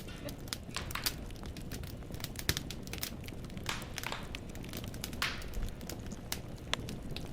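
Firewood burning in a fireplace, crackling and popping with sharp irregular snaps over the fire's steady low rumble. About four and five seconds in come two longer rushes of crackling.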